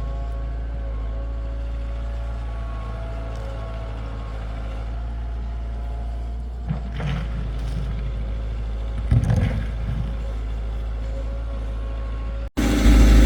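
Heavy vehicle engine running with a steady low drone, with a couple of brief knocks or rattles partway through; near the end it cuts abruptly to a louder stretch of engine.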